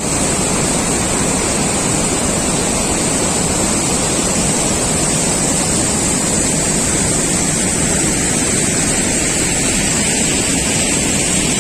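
Steady, loud rush of water pouring from the Harangi dam's spillway during the monsoon.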